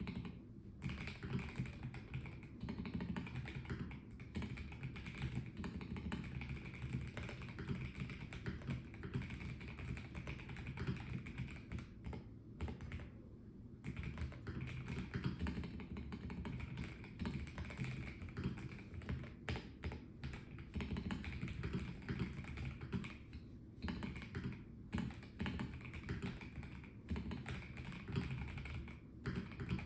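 Typing on a Melgeek Mojo84 plastic-case mechanical keyboard: a steady run of irregular key clacks that stops for a second or so about halfway through and then resumes.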